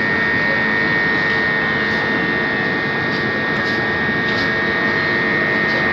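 A locomotive-hauled passenger train rolling into a station platform: a steady rumble with a constant high whine over it.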